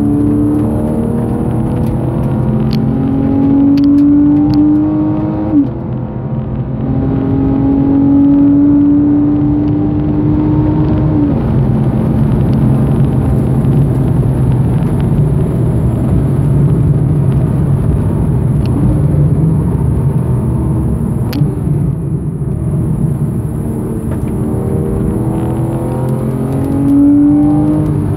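Porsche 991.1 Carrera's 3.4-litre flat-six heard from inside the cabin under hard acceleration. The revs climb and break off sharply at two gear changes in the first dozen seconds, then run steadier and lower before climbing again near the end.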